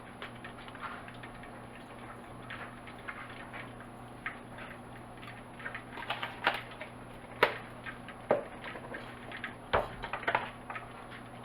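Light, irregular clicks and taps as black pepper is added to raw chicken livers, a few sharper ticks in the second half, over a steady low hum.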